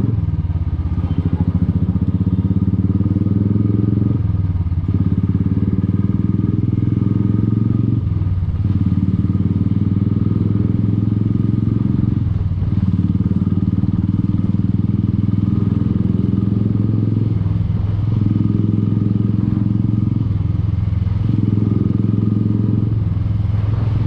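Single-cylinder engine of a 2016 Royal Enfield Classic 350, running steadily through an aftermarket exhaust. The sound eases off briefly every few seconds.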